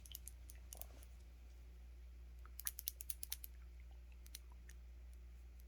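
Quiet, sharp clicks and taps of glass nail polish bottles being handled, scattered at first, then a quick run of about eight clicks about two and a half seconds in.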